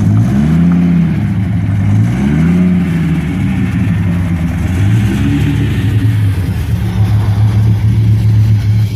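Supercharged V10 of a 1996 Dodge Viper GTS, straight-piped, idling and blipped three times: the revs rise and fall twice near the start and once more briefly about halfway, then settle into a steady idle.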